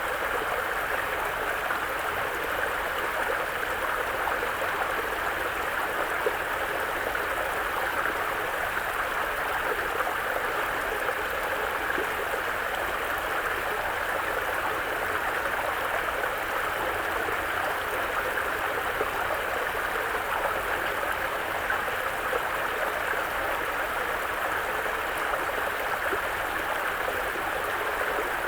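Mountain brook running over rocks: a steady, even rush of flowing water with no change.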